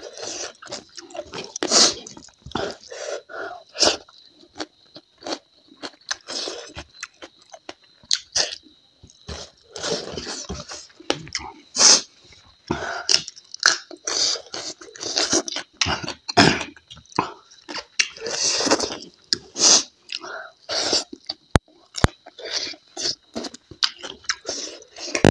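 A person chewing and eating close to a clip-on microphone: irregular wet mouth noises, bites and crunches with short pauses between them. A faint steady high whine runs underneath.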